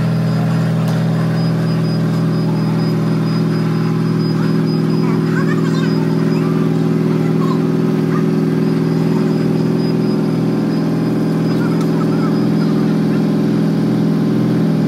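Mercedes-AMG GT4 race car's V8 engine idling, loud and steady at one even pitch.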